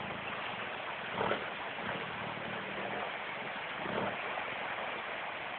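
Toyota Hilux engine running faintly under a steady hiss, its low hum fading out about halfway through.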